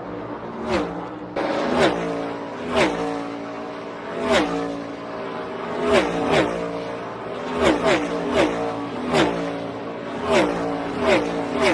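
NASCAR Cup Series stock cars' V8 engines at full throttle, a dozen or so cars passing in quick succession, each engine note dropping sharply in pitch as it goes by.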